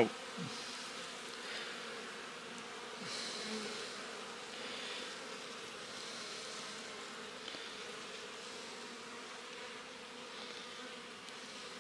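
Honeybees buzzing steadily from an opened hive: a strong colony with the lid off on a cold day, a low continuous hum.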